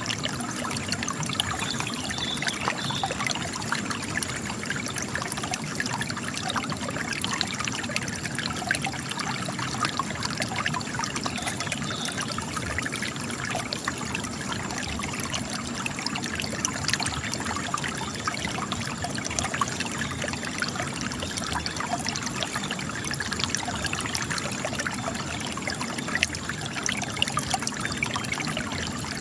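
Spring water trickling out of cracks in rock, a steady run of water with many small splashes and drips.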